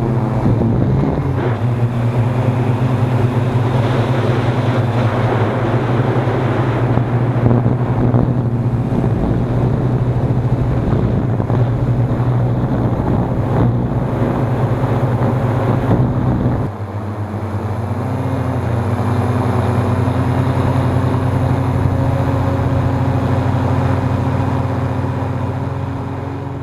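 Hexacopter's electric motors and propellers humming steadily, with wind buffeting the microphone. About two-thirds of the way through, the low rumble suddenly drops away and the hum shifts in pitch, then the sound fades out near the end.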